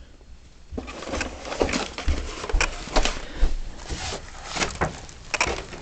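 Boxed model train locomotives being handled and moved about: a string of irregular clicks, knocks and rustles.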